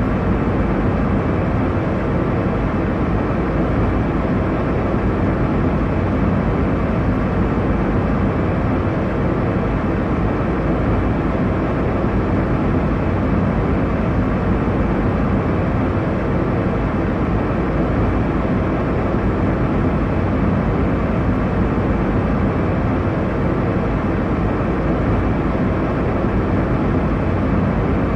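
Steady airliner cabin noise in flight: an even, low rushing drone of engines and airflow with no change.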